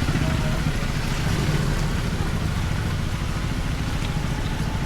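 Motorcycle engine running steadily on the move, with a steady rushing noise over it.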